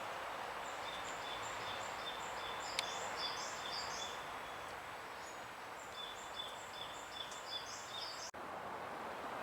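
Small birds chirping in rapid, repeated high notes over a steady outdoor background hum. The chirping pauses for a couple of seconds midway and stops abruptly near the end.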